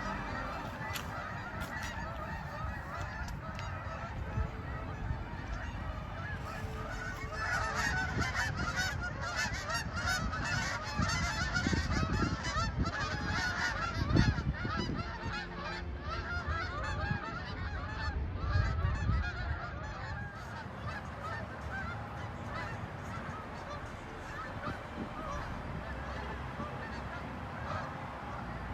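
A migrating flock of geese flying over in V formation, many birds honking at once in a dense, overlapping chorus that is busiest in the middle and thins out toward the end, over a steady low rumble.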